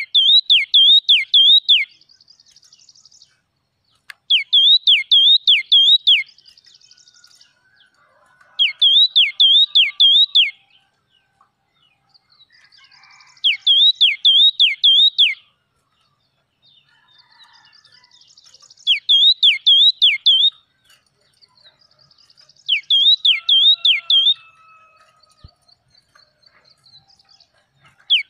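A yellow-cheeked tit singing: loud phrases of about four ringing, swooping whistled notes, repeated every four to five seconds, with soft twittering between phrases.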